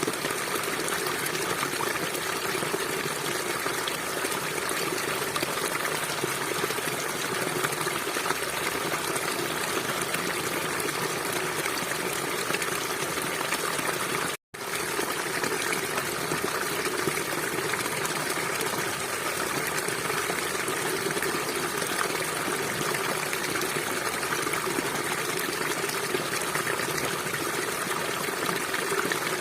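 River water flowing in a steady rush, with a momentary cut to silence about halfway through.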